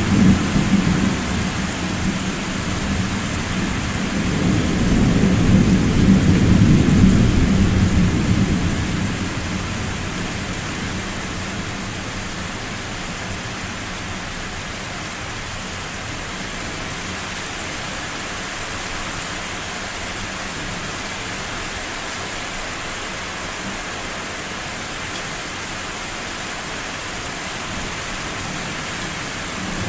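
Deep rolling thunder over steady rain. The rumble swells again a few seconds in and dies away about a third of the way through, leaving the even hiss of the rain.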